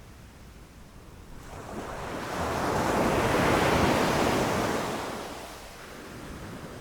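Ocean waves breaking on a beach: a single wave swells about a second and a half in, crashes loudest in the middle and washes out, leaving a softer surf hiss.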